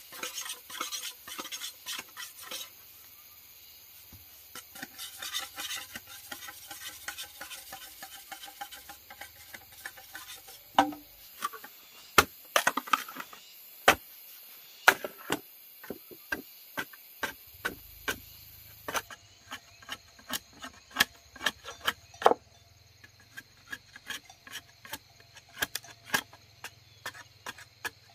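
Hand work on wood: scraping and rubbing at first, then an irregular run of sharp knocks on wood that carries on to the end.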